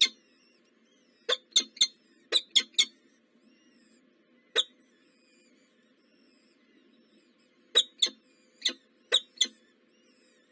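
Birds at a nest giving short, sharp chirps in quick clusters of two or three, with a single chirp in the middle and pauses between. Faint songbirds sing in the background.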